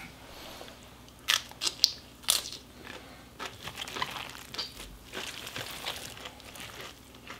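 Crunching and chewing of a mouthful of fresh yeolmu and eolgari kimchi, the crisp young radish stems and cabbage crackling. There are a few sharp crunches between one and two and a half seconds in, then softer chewing.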